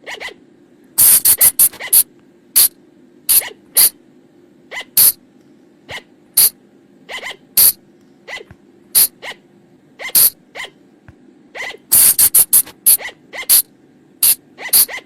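Sunda flying lemur (colugo) calls: short, shrill squeaks, some single and some in quick runs, with the densest runs about a second in and about twelve seconds in. A faint steady low hum lies underneath.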